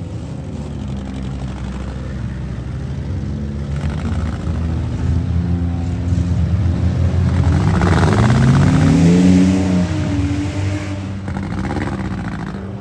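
Demolition derby car engines running hard and revving. One rises in pitch and is loudest about eight to nine seconds in, then falls back.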